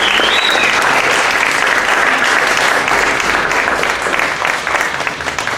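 Audience applauding, a dense steady clapping that begins to thin and die down near the end.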